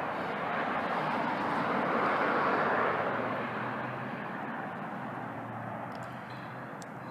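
A vehicle passing by: a rush of road noise that swells to its loudest about two to three seconds in, then slowly fades away.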